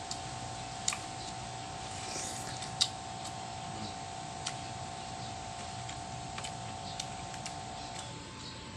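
Scattered sharp clicks and crunches from a person chewing and handling crisp unripe green mangoes, over a steady whine that cuts off near the end.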